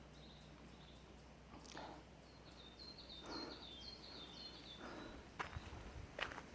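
A small bird chirping in a quick series of short, high notes about halfway through, over faint footsteps on a mountain trail about every second and a half.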